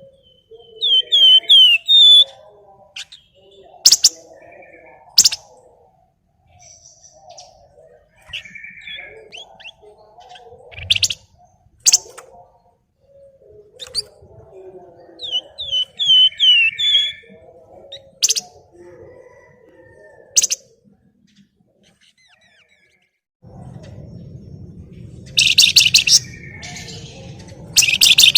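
Flamboyan songbird singing as a bird-lure recording: repeated phrases of quick downward-sweeping chirps with sharp, loud call notes between them. After a short pause the recording changes, and a steady hiss lies under louder, rapid calls near the end.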